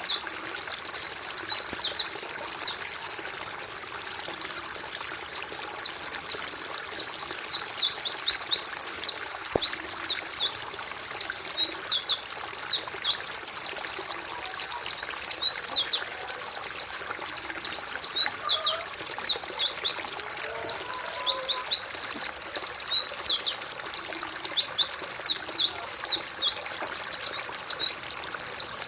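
Dense chorus of white-eyes (pleci): many short, high, downward-sweeping chirps overlapping without a break.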